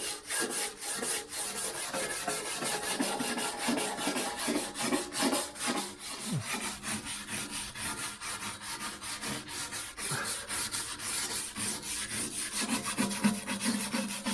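Wire brush scrubbing old oil, grease and grime off a 1960s Boxford metal lathe, with rapid scratchy strokes, several a second.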